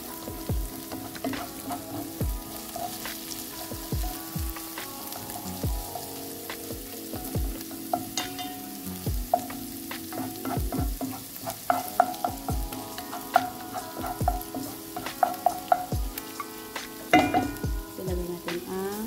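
Grated ginger sizzling as it fries in a granite-coated pan, with a wooden spatula stirring and scraping it and tapping against the pan many times, more often in the second half.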